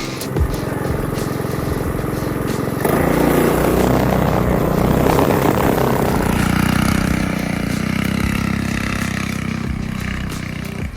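Mossimo mini bike engine running under throttle on a trail ride; it grows louder about three seconds in, then eases off near the end.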